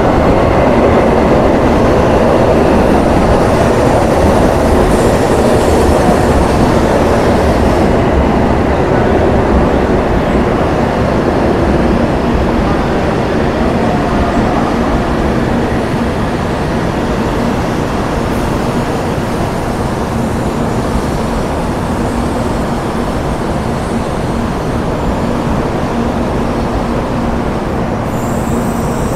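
An out-of-service Shinkansen train departing along the platform: a loud, steady rumble and rush that slowly eases, with a steady hum coming in about halfway.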